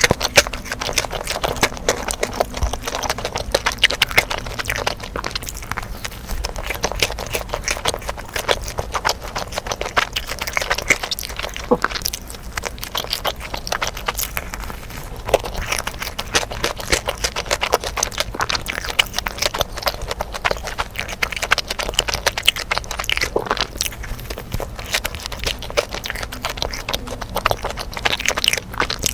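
Close-miked chewing and mouth sounds of someone eating: a dense run of small clicks and crunches.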